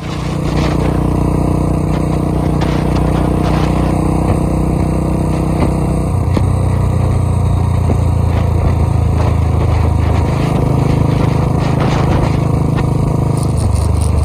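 Tractor engine running hard at a steady pitch; its note shifts about halfway through and again near the ten-second mark.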